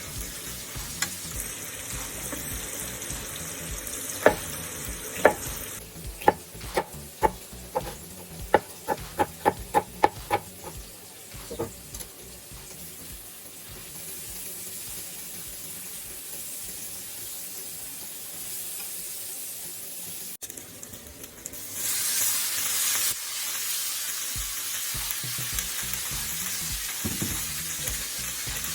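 Pork, carrot and cabbage stir-frying in a pan, a steady sizzle. Between about four and twelve seconds in comes a run of sharp clacks, quickening partway through, as the food is stirred and a utensil strikes the pan. About three quarters of the way through the sizzle turns suddenly louder and brighter.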